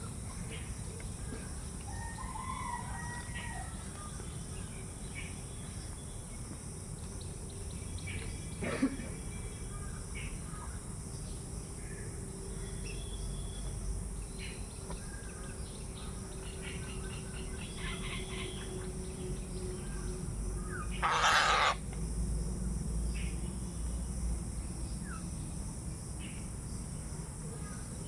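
Birds calling over a steady low background rumble: scattered short chirps, and one loud, harsh call about 21 seconds in.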